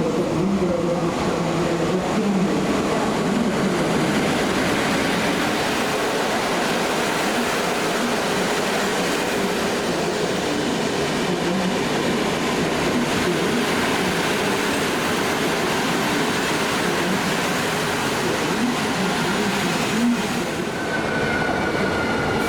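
A train rolling through the station with a steady rumble of wheels and running gear; near the end a thin wheel squeal starts and slowly falls in pitch.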